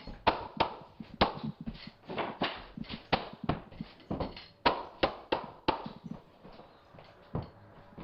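Repeated sharp knocks of hardwood floorboards being struck into place, in a quick irregular run, several a second at times, thinning out near the end.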